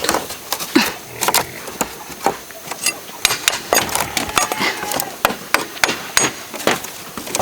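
A tool striking bamboo again and again: irregular sharp knocks and taps, roughly two or three a second.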